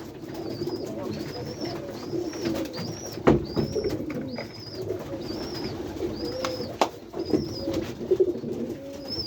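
Several pigeons cooing together at close range, with a high, arched chirp repeating about every 0.7 s over it and a few sharp clicks, the loudest about three seconds in.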